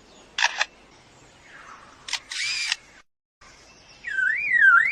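Superb lyrebird mimicking a camera: single shutter clicks, then a short whirring burst like a motor drive. About four seconds in it switches to a copy of a car alarm, a loud tone sweeping up and down about twice a second.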